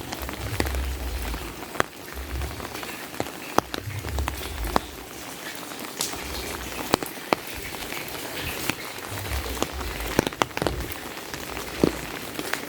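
Steady rain falling, with sharp taps of single large drops striking close to the microphone scattered through it, and low bumps that come and go underneath.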